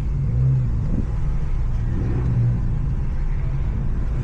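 Infiniti Q50's exhaust droning steadily at low speed, heard from inside the car, swelling slightly a couple of times.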